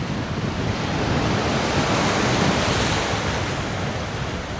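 Ocean surf washing, with wind, the wash swelling to a peak about midway and easing off again.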